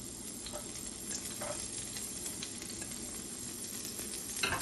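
Chopped onion, garlic and green chilli sizzling steadily in a little olive oil in a frying pan, with faint crackles, and a short knock near the end.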